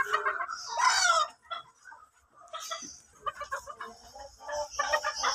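Chickens clucking in a series of short calls, with one louder call about a second in.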